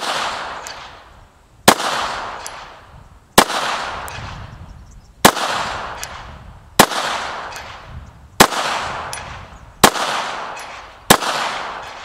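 Glock 17 9mm pistol fired in slow, deliberate single shots with handloaded rounds: about eight sharp reports roughly a second and a half apart, each trailing off in a long echo.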